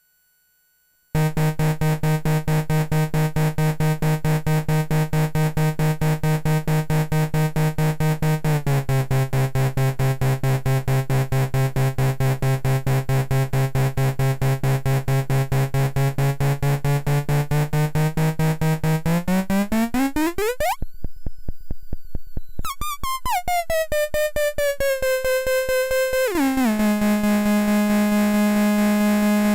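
ADDAC105 4-Voice Cluster eurorack module playing one voice, a buzzy synth tone rich in overtones retriggered in a fast, steady pulse that starts about a second in. Its pitch steps down a little, later sweeps up to a high whine and falls back, settling slightly higher than before near the end as the frequency is dialled.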